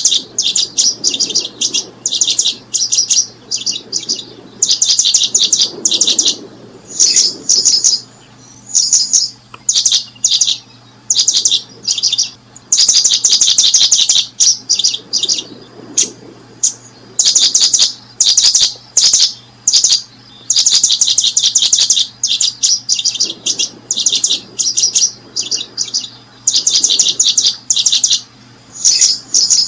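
Small birds chirping in rapid trains of high, ticking notes, each burst lasting a second or two, with short breaks between them.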